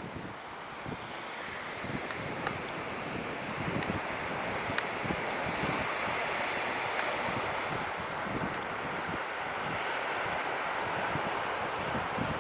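Surf breaking on the beach with wind buffeting the microphone, a steady rushing that builds slightly over the first few seconds.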